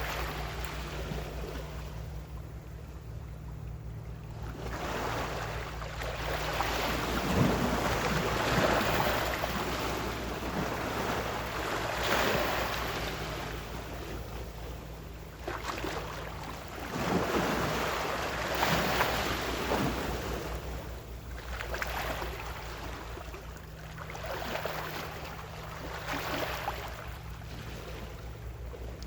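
Gentle ocean waves washing in, each swell of surf rising and falling every few seconds, over a steady low hum.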